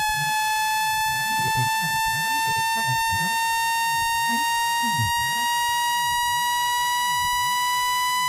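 Generated speaker-cleaning tone, played to vibrate water and dust out of a phone speaker: a loud, steady electronic tone with overtones that slowly rises in pitch.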